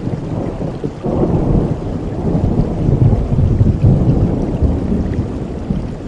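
Thunder rumbling over steady heavy rain, the rumble swelling about a second in and rolling on with the low end strongest.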